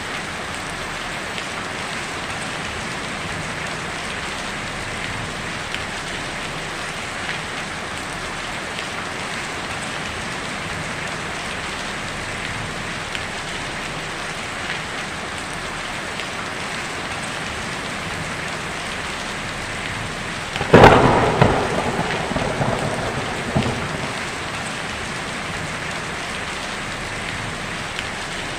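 Steady rain falling on a tin roof. About two-thirds of the way through, a sudden loud thunderclap breaks out, then crackles and rumbles away over about three seconds.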